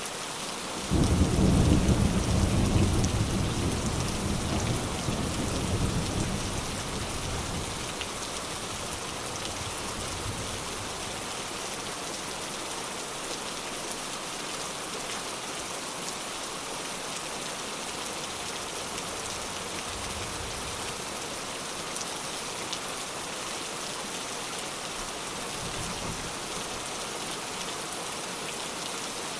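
Steady rain falling. About a second in, a clap of thunder breaks out as a deep rumble that dies away over several seconds, and two faint low rumbles of thunder follow later.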